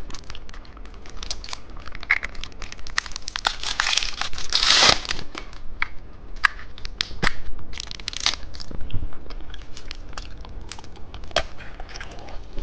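Plastic candy packaging crinkling and tearing as it is opened, with many small crackles and clicks and a louder tearing rustle about five seconds in.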